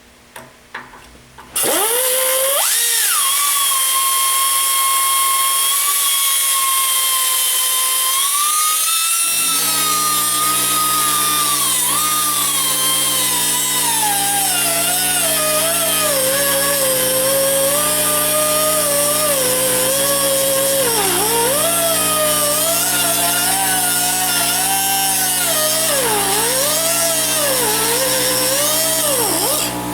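Die grinder with a cut-off wheel spinning up to a loud, steady high whine, then cutting through a broken exhaust manifold flange bolt. Its pitch sags and dips again and again as the wheel bites under load, and it stops near the end.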